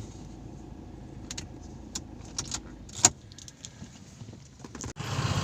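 Low traffic rumble with scattered light clicks and taps. Near the end the sound cuts off abruptly and louder, steady traffic noise takes over.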